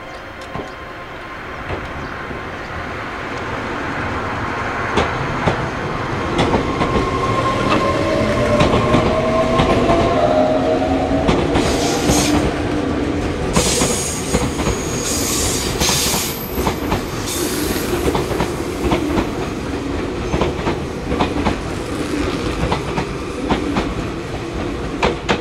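Meitetsu electric train running close by in a station. Its traction motors whine, rising in pitch as it pulls away, and the wheels click over rail joints throughout. A high wheel squeal comes in around the middle.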